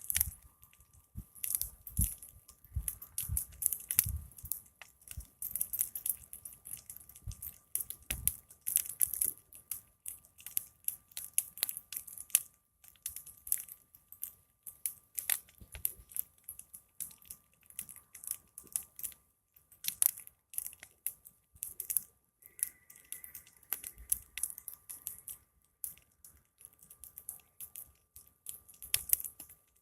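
Big wood fire crackling, with a dense, irregular run of sharp pops and snaps.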